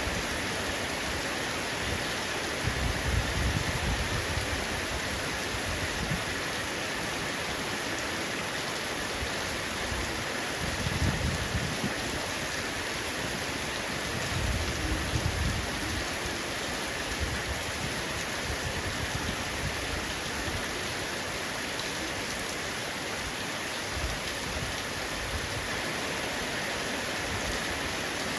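Heavy rain falling on a roof, a steady dense hiss of drops. Brief low rumbles swell up three times, about 3, 11 and 15 seconds in.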